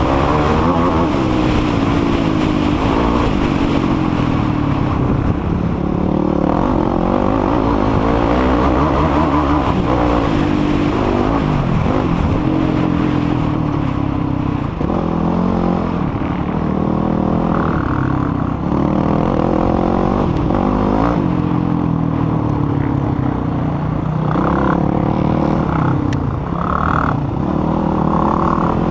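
Yamaha YFZ450R sport quad's single-cylinder four-stroke engine running hard, its pitch climbing and dropping again and again with throttle and gear changes.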